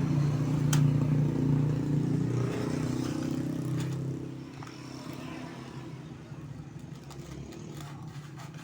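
A vehicle engine running with a steady low hum, loudest for the first four seconds and then fading away.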